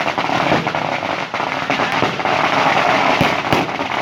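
Fireworks crackling densely and continuously, with two sharper bangs a little over three seconds in.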